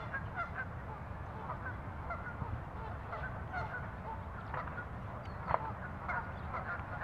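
Birds calling: many short, honk-like calls, scattered and overlapping, with a louder one about five and a half seconds in, over a steady low rumble.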